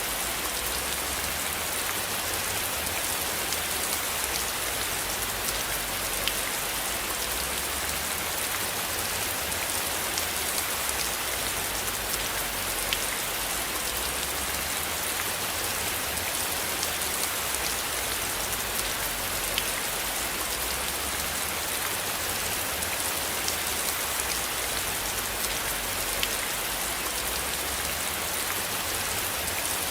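Steady rain falling, an even hiss with scattered drop ticks, and a low rumble underneath.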